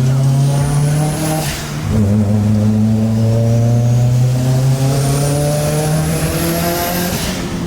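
Turbocharged Mitsubishi Lancer Evolution IV accelerating hard: the engine note climbs, dips at a gear change about a second and a half in, then climbs again through the next gear, with a thin high whistle rising along with the revs.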